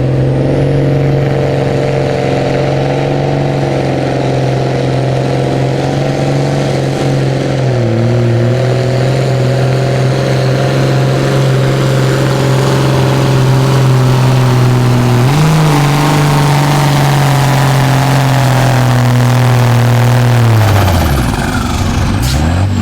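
Loud pulling tractor engine held at high revs under load as it drags a weight-transfer sled. The pitch dips briefly partway through, jumps up sharply later, then falls away steeply near the end as the throttle comes off, before revving back up briefly.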